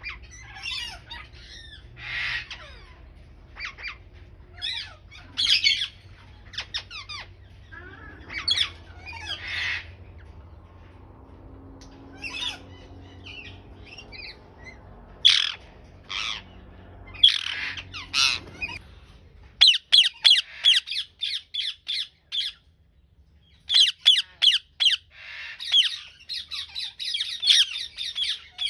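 Indian ringneck parakeet squawking: short, shrill calls, scattered at first, then coming in fast runs of many calls near the end.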